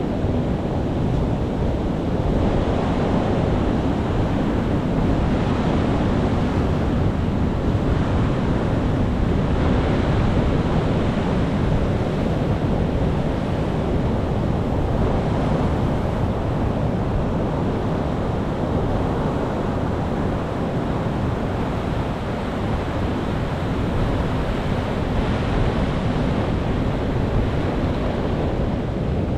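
Ocean waves breaking and washing on a shore, a continuous rushing surf that swells and eases every few seconds, with a deep low rumble underneath.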